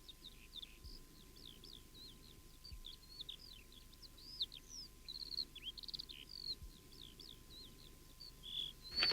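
Faint birdsong: small birds chirping and twittering in quick high chirps, short trills and slurred whistles.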